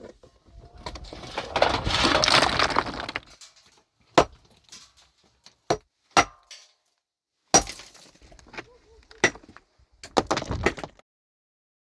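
A rough rustling for about two seconds, then a string of sharp cracks and knocks, irregularly spaced.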